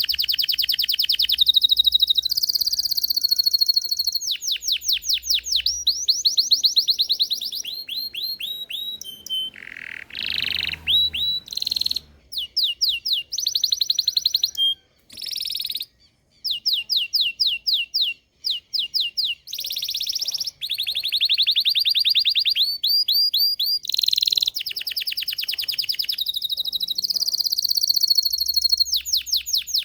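Domestic canary (Belgian canary) singing a long song of rapid trills, each a fast run of repeated down-sweeping notes, switching from one trill to the next, with a few short breaks around the middle.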